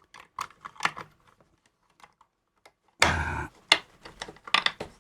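Irregular light clicks and taps of small metal hardware and tools being handled while reconnecting wires to an antenna balun's terminals, with a louder short scrape about three seconds in.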